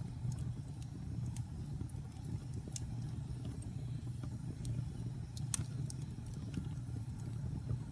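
Wood fire burning in a fireplace: a steady low rumble of flames with scattered sharp crackles and pops, the loudest about five and a half seconds in.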